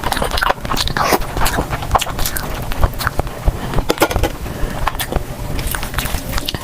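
Eating sounds: chewing and mouth noises with many irregular, crisp clicks and crackles.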